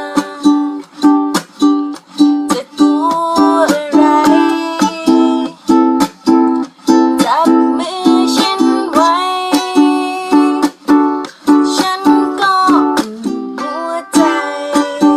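Ukulele strummed in a steady, regular rhythm, with a voice singing a gliding melody over the chords.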